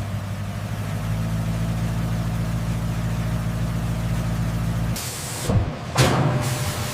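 A steady low machine drone, engine-like, that cuts off abruptly about five seconds in. It is followed by a short whoosh and a loud sudden hit that trails away into a hiss.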